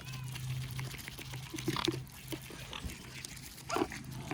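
Mute swans giving a few short, soft calls while crowding in to be hand-fed, over a low steady hum.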